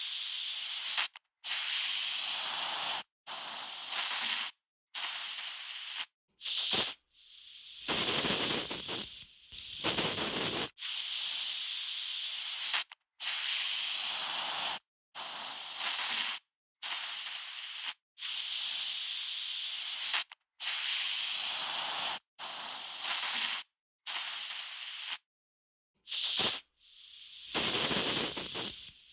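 Aerosol spray can spraying in a long series of short bursts, each one to two seconds of bright hiss, cut apart by brief gaps of silence. A few of the bursts carry a fuller, lower rush.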